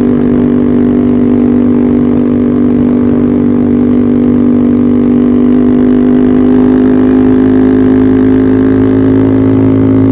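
Yamaha R15 V3's single-cylinder engine through an aftermarket Arrow racing exhaust, running at steady revs: a loud, even drone whose pitch creeps up slightly.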